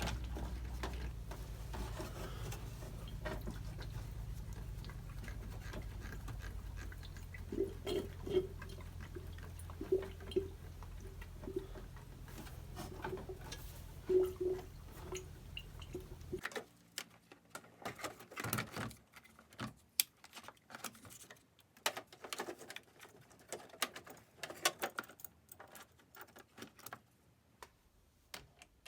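Coolant gurgling and bubbling in a VW 1.8T cooling system as a coolant hose is squeezed to burp trapped air out, with a run of short bubbling pops. After an abrupt change about halfway through come scattered light clicks and knocks of handling.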